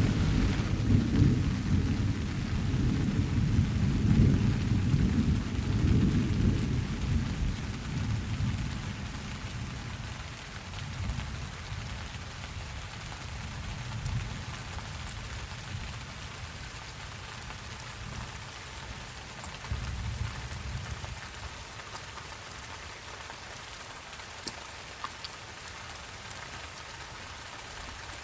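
Steady rain with a long roll of thunder that is loud at the start and fades away over about ten seconds, then a fainter rumble of thunder about twenty seconds in.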